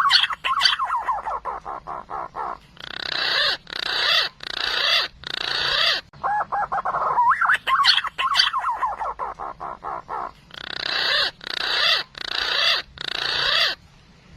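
Green pigeon (punai) song played as a hunting lure. It is a run of wavering whistles and quick notes, then several longer, louder whistled notes, and the whole phrase comes twice.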